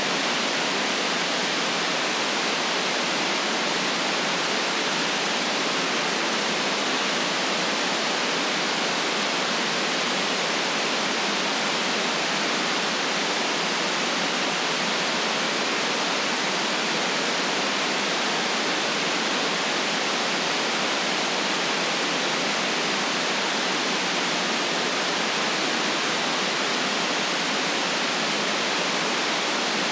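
Steady white noise: an even, unchanging hiss with no low rumble and its top cut off.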